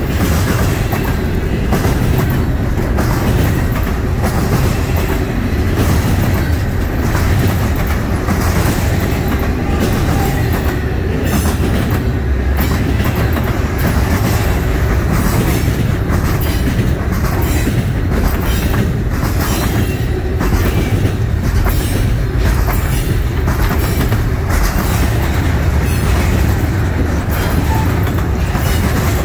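Double-stack intermodal freight train's loaded well cars rolling past at close range: a steady, heavy rumble of steel wheels on rail, with repeated clacks as the wheels cross rail joints.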